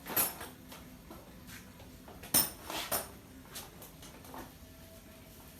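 Scattered light clicks and clinks of small hard objects being handled, with the sharpest knock about two and a half seconds in.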